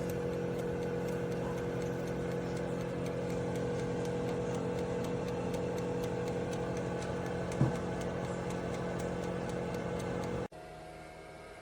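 Instant Pot InstantHeat toaster oven running on its pizza setting: a steady electrical hum from the fan and heating elements, with a single click about seven and a half seconds in. The hum cuts off suddenly near the end.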